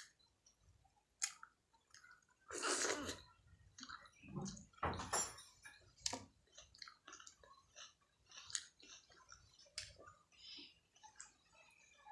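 Close-miked chewing and wet mouth sounds of a person eating Indian food, with scattered clicks and two louder bursts about a quarter and halfway through.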